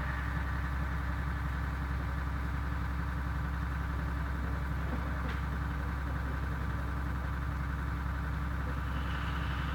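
Steady low electrical hum with faint hiss, the background noise of the recording, with one faint tick about five seconds in.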